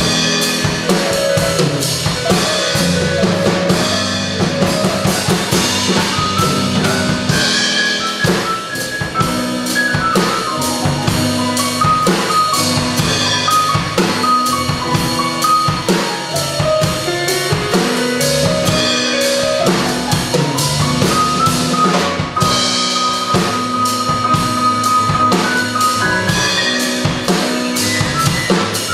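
Live jazz trio of keyboard, bass and drum kit playing, with busy drums and cymbals driving steadily throughout. Keyboard lines rise and fall over the bass.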